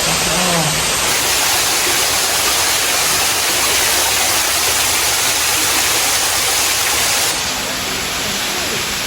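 Steady rushing of falling water from a water feature, loud and even, dropping a little in level about seven seconds in.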